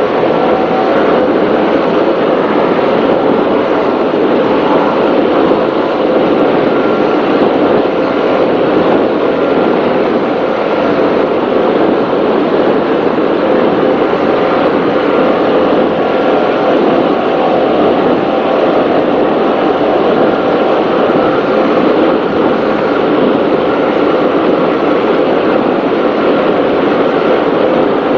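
Offshore racing powerboat running at speed, heard onboard: the loud, steady sound of its engines mixed with wind and water rushing past the hull.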